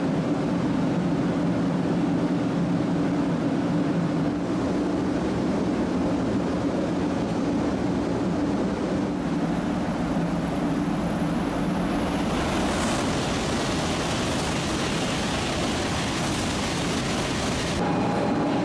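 500 Series Shinkansen bullet train running into a station: a steady rush of running noise with a low, even motor hum. About twelve seconds in the hum drops away and a brighter, hissier steady noise takes over.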